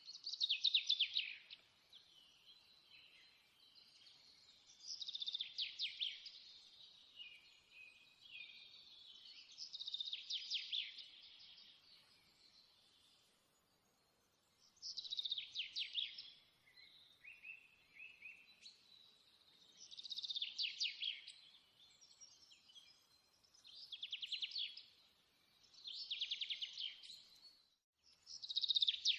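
A songbird singing: high trilled phrases, each a second or two long, one every four or five seconds, with softer chirps between.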